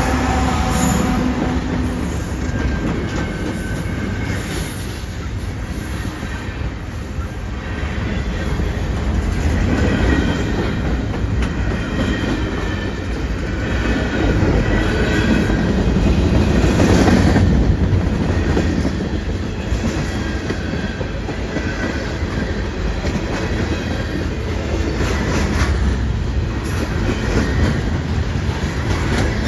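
A train rolling past, with a continuous low rumble, wheels clacking over the rail joints and faint high wheel squeal.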